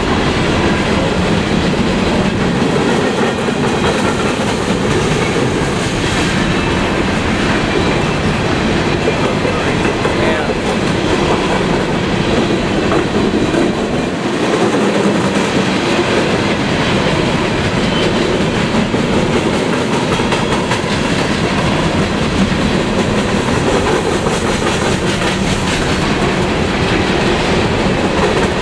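CSX freight train rolling past close by, a continuous loud rumble of steel wheels on the rails with clicking over the rail joints.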